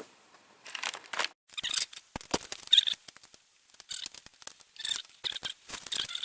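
Ratchet wrench clicking in short bursts, about once a second, as it is swung back and forth tightening the cylinder head nuts.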